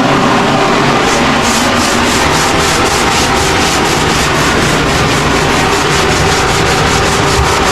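Sanding of the bathtub floor surface in fast back-and-forth strokes, about four or five a second, starting about a second in, over a steady machine hum.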